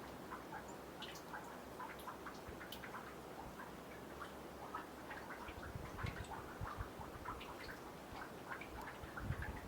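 Meltwater from snow dripping off a boardwalk into a nearly frozen pond: many small, irregular ticking drips. A few low thumps come in during the second half.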